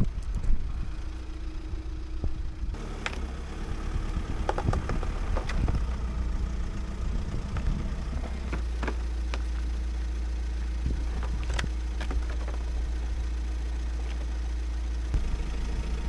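An engine running steadily: a deep low rumble with a constant hum over it, and scattered light clicks and knocks.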